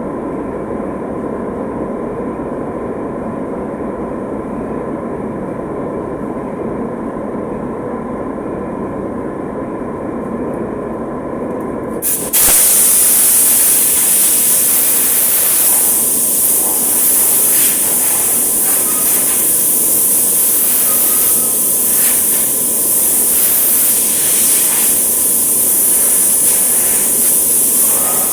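A steady machine hum with a thin whine, then about twelve seconds in a paint spray gun opens up with a loud, steady hiss of air and atomised paint, as a coat such as urethane is sprayed onto motorcycle parts.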